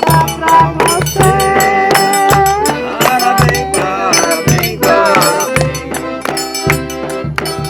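Forró pé-de-serra played by a small band: an accordion holds and slides between notes over a steady low drum beat and quick high strokes that fit a triangle.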